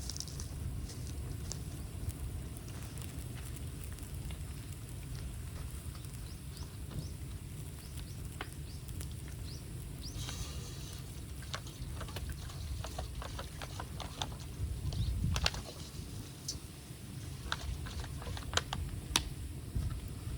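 Cut bamboo burning in an open bonfire: scattered crackles and sharp snaps over a steady low rumble, with a short hiss about ten seconds in and a louder burst of snapping about fifteen seconds in.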